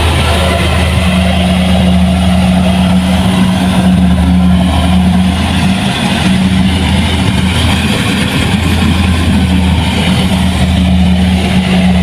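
Heavy farm machine's diesel engine running loud and steady at a constant speed, with a low hum. About halfway through it turns rougher for a couple of seconds, then settles again.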